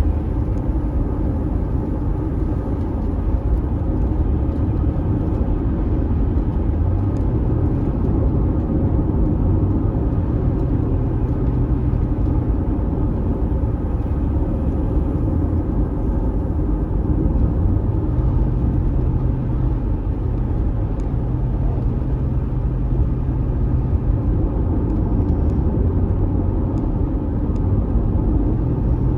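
Steady road and engine noise inside a car driving on a highway, a low drone with a faint hum that rises and fades slightly.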